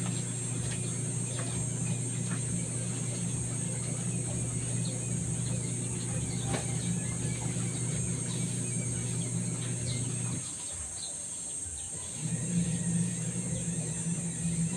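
Electric motor running with a steady hum. It cuts off about ten seconds in and starts again about two seconds later. Faint scattered ticks are heard over it.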